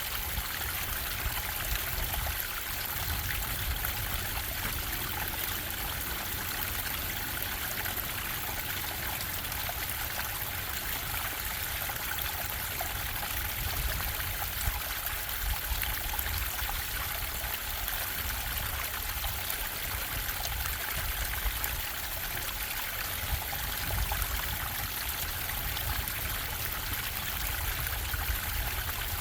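Bubbling stream: a steady, unbroken rush and trickle of running water, with small splashes here and there.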